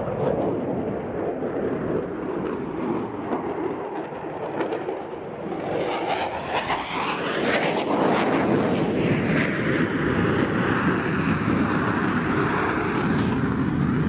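Military jet aircraft engine noise: a steady jet roar that swells about six seconds in, with a sweeping rise and fall in pitch as the jet passes.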